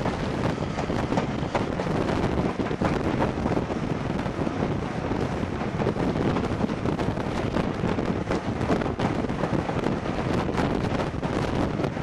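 Wind buffeting the microphone from a moving train's carriage window, over the steady running noise of the train on the track.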